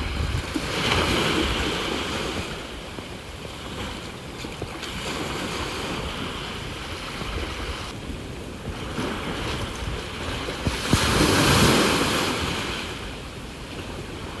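Sea waves washing onto the shore, the noise swelling and fading: one surge about a second in and a louder one about eleven seconds in. Wind rumbles on the phone's microphone underneath.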